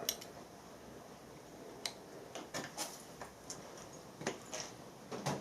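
Light metallic clicks and taps, about eight at irregular intervals, from a wrench and steel fitting being handled at a workbench.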